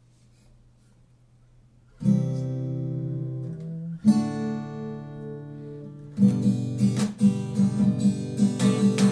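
Acoustic guitar playing a song intro: a chord strummed about two seconds in and left to ring, a second chord about two seconds later, then steady rhythmic strumming from about six seconds in.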